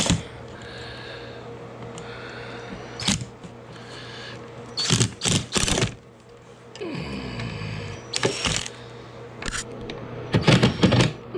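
A scatter of sharp clicks and knocks from hand tools being handled, a few in quick succession, over a steady low hum.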